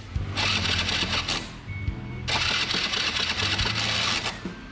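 Motorbike electric starter cranking the engine with the spark plug removed, in two bursts, the first about a second long and the second about two seconds; a spark test on a bike that is hard to start.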